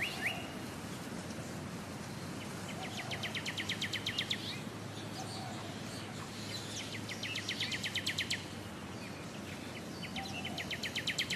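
Rainforest ambience with a steady background hiss. A bird gives a short chirp at the start, then repeats a rapid trill three times, each about ten notes a second and lasting about a second and a half.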